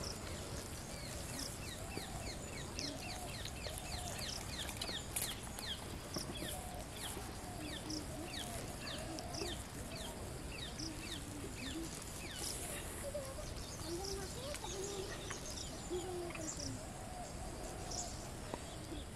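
Birds chirping: quick, short falling chirps repeated many times a second, with fainter, lower curved calls underneath, over steady outdoor background hiss.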